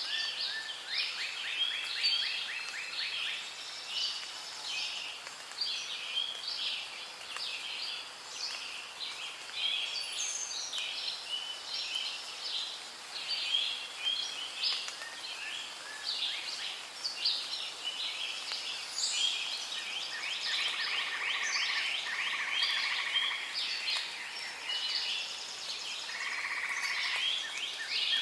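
Rainforest ambience: a dense chorus of many birds chirping and trilling over one another without pause. A steady buzzing trill joins in during the last third.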